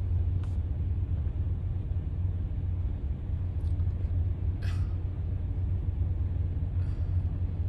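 Steady low rumble of an idling diesel truck engine, with a brief faint higher sound about four and a half seconds in.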